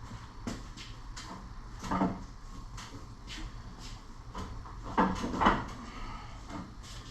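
Steel snowplow-mount tubes clunking and scraping as they are worked back and forth into their brackets: scattered knocks, the loudest about two seconds in and a pair around five seconds in, over a steady low hum.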